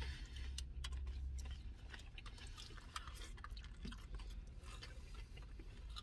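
Quiet chewing of a birria taco, with scattered small mouth clicks. A low hum sits underneath and drops off after about a second and a half.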